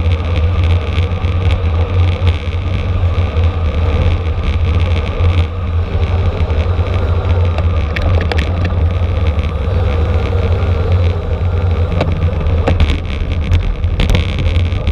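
Heavy wind buffeting on the microphone of a camera riding along with a racing bicycle: a steady low rumble, with scattered clicks and crackles from the road and the bike.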